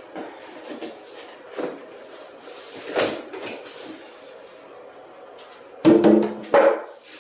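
Cardboard box and packaging being handled as a small fridge is worked out of its box: scattered light knocks and scrapes, a louder rustling scrape about three seconds in, and two loud squeaky rubs near the end.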